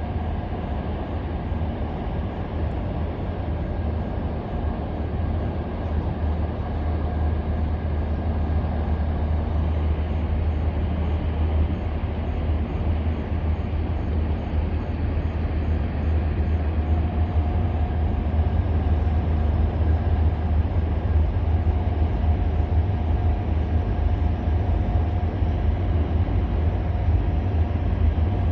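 EMD SD40-2 and SD40-T six-axle diesel locomotives running, their two-stroke diesel engines giving a steady deep rumble that grows slowly louder.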